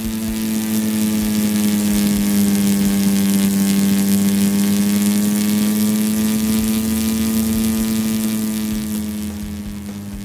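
Steady droning hum of a propeller airplane engine sound effect, one unchanging pitch over a hiss, growing louder through the middle and easing off near the end.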